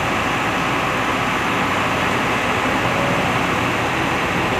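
Truck crane's engine running steadily, a constant noisy hum with no distinct knocks or changes.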